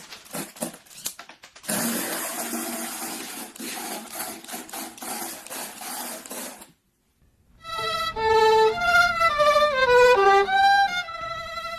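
Quick clicking and a longer rattle of small plastic parts, typical of LEGO pieces being handled. After a brief pause comes a short, loud melodic music phrase with vibrato that steps mostly downward.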